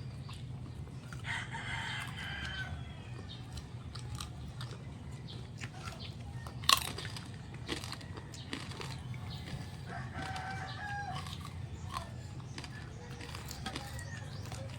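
A rooster crows twice, a second or so in and again about ten seconds in, over small chewing and crunching sounds. A single sharp crack about halfway through is the loudest moment.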